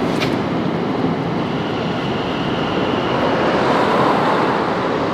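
London Overground electric train running along the elevated viaduct: a steady rushing rumble with a faint high whine held for a couple of seconds in the middle, mixed with road traffic passing below.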